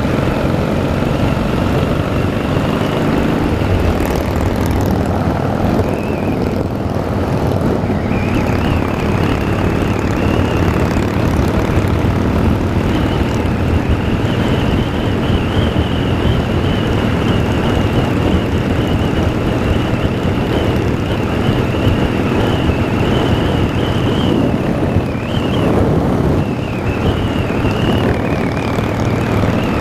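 Harley-Davidson motorcycle engine running steadily while riding, with a constant rushing noise and a wavering high whine over the engine's rumble.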